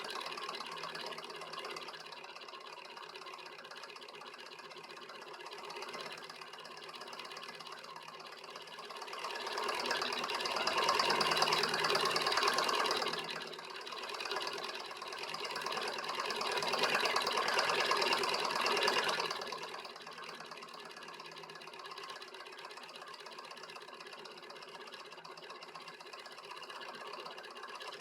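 Homemade beta-type Stirling engine running, a steady rapid mechanical sound. It grows louder twice in the middle for a few seconds each.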